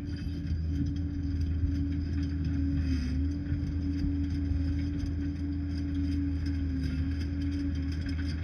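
Liebherr 746 crawler bulldozer running at work: a low diesel rumble with a steady hum above it that dips briefly in pitch a few times as the load changes.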